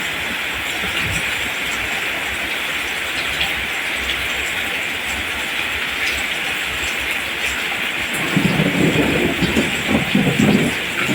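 Steady rain hissing. About eight seconds in, an uneven low rumble joins it for a few seconds.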